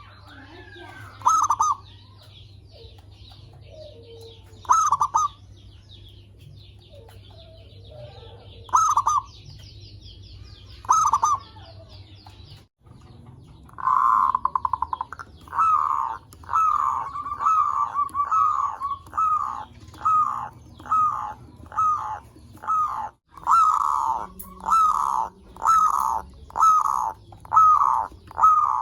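Zebra doves (perkutut) cooing in short, clipped call phrases. The first half has a few spaced calls; from about halfway a continuous run of quick coos follows, nearly two a second.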